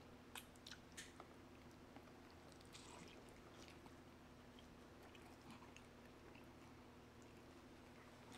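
Faint chewing of pizza by two people, with scattered soft clicks of biting and mouth sounds over a low steady room hum.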